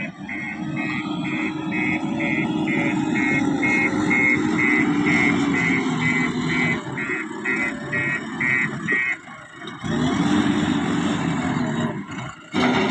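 Diesel engine of a heavy earthmoving machine running, with a reversing alarm beeping a little over twice a second that stops about nine seconds in. The sound then cuts suddenly to more engine running, which drops away briefly near the end.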